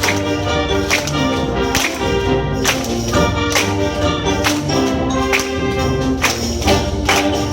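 Concert wind band playing, with held brass and woodwind chords over a steady bass line and sharp percussion hits about once a second.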